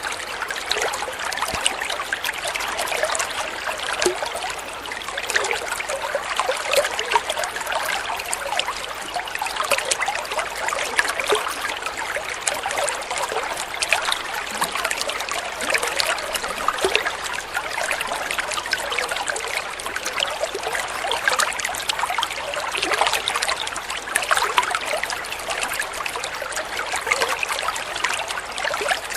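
Water flowing and trickling steadily, splashing and burbling.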